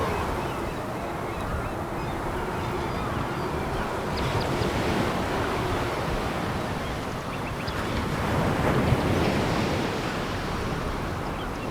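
Sea waves breaking on a pebble beach. The surf swells about four seconds in and again, louder, around nine seconds, with faint clicking among the noise of the water.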